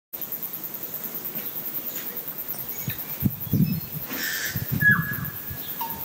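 New Zealand native birds singing: scattered short high chirps, then from about four seconds in a clear held whistled note with a quick falling slur below it. A few louder low thumps come between about three and five seconds in.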